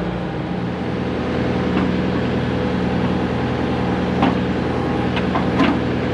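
Excavator's diesel engine running steadily, with a few short metallic knocks and clanks in the second half.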